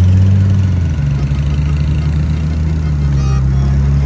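Car engine running with a steady low note that drops in pitch about a second in, then holds steady.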